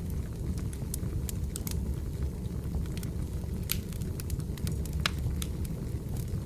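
Burning firewood crackling: a steady low rumble with frequent, irregular sharp pops and snaps.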